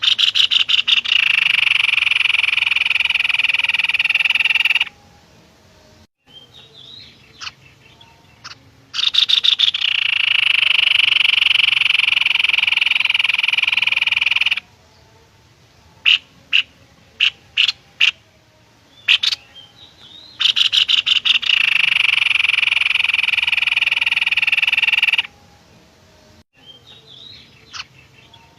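Recorded bird calls for songbird training: a long, loud buzzing trill repeated three times, each lasting about four to five seconds and opening with fast pulses. Between the second and third trill come several short sharp calls.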